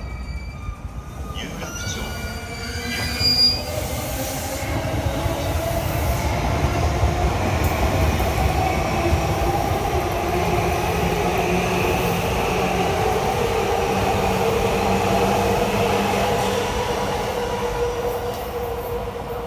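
JR East E235 series Yamanote Line electric train running on a curve: a low rail rumble with several high whining squeals from the wheels, which rise over the first few seconds and then hold steady. A short, sharp high tone stands out about three seconds in.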